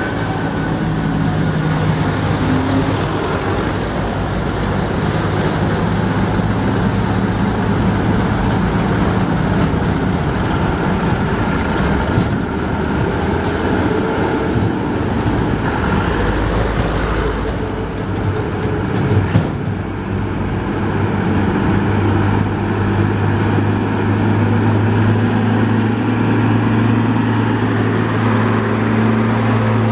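Diesel truck engine running steadily under load, a constant drone whose note grows stronger in the second half. Three brief high squeaks come around the middle, and a single knock about two-thirds of the way through.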